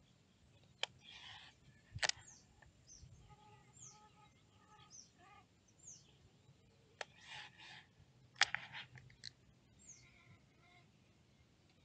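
A bird repeating short, high, falling chirps every second or so. A few sharp clicks and knocks, the loudest about two seconds in and again past eight seconds, come through it along with brief rustles.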